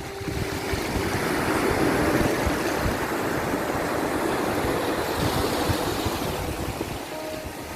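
Ocean waves surging and washing, a swell building over the first couple of seconds and easing off near the end.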